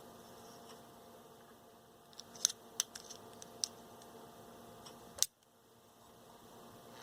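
Several sharp clicks from handling a small transistor radio and its power connections, then a louder pop about five seconds in, after which the faint hum cuts out and a soft hiss builds as the radio is powered up.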